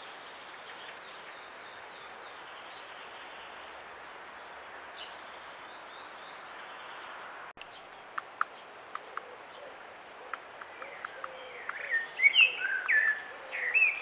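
Wild birds calling outdoors over a steady background hiss: faint distant song at first, then a run of short sharp ticks, then loud, close chirping calls near the end.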